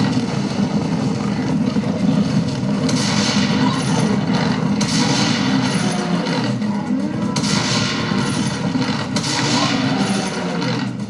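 Video-game battle audio, with gunfire, explosions and voices, played back through an Armaggeddon X-Bar 2 gaming soundbar as a sound test. Several loud bursts land a second or two apart over a constant background of battle noise.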